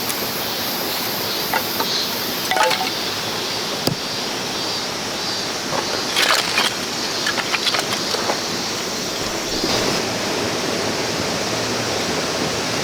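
A clear river stream running steadily, with a few light clinks and knocks over it.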